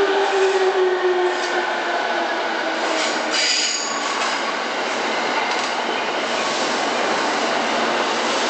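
JR East E217-series electric commuter train pulling into the platform and slowing: a steady rolling rumble of wheels on rails, with a pitched hum that fades out in the first second or so and a brief high wheel squeal about three and a half seconds in.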